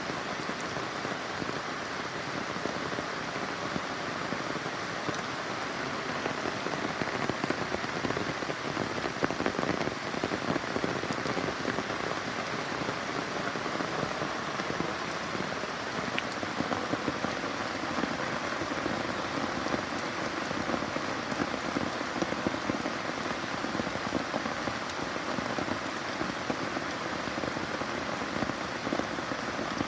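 Steady rain falling, an even hiss with many small drop taps.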